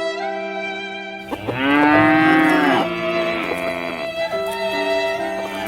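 A cow mooing: one long moo starting about a second in, trailing off, over background music.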